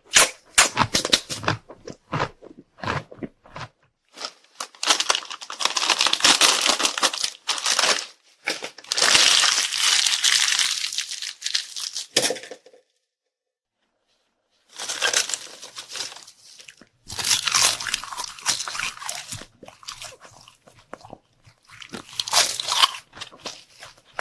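Close-miked eating sounds: crisp crunching bites and chewing, with two long stretches of continuous noise in the middle and a break of about two seconds of silence halfway through.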